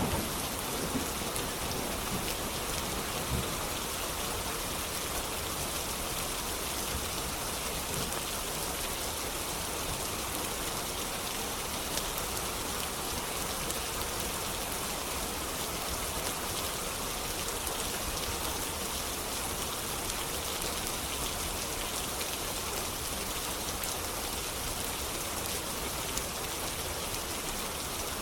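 Steady rain falling, an even hiss that stays level throughout, with a few faint scattered clicks.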